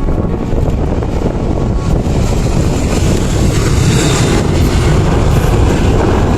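Jet airliner engines roaring as the plane passes, a steady low rumble with a hiss that swells from about two seconds in and eases off toward the end.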